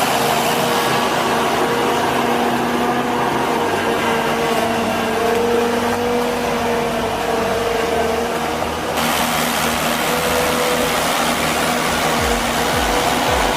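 Engine running steadily at a constant pitch, with an abrupt change in the sound about nine seconds in.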